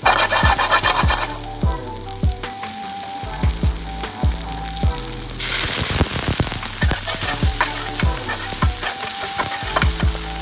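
Food sizzling in hot oil in a pan while being stirred, with scrapes and clicks of the spatula against the pan. The sizzle flares loudly at the start and grows louder again about halfway through.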